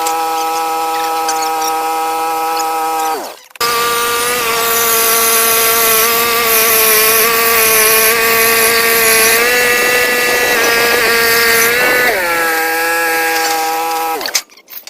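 Portable band sawmill running with a steady high whine and the hiss of the blade in pine. It winds down and stops about three seconds in, comes back at a higher pitch, then winds down again and stops near the end.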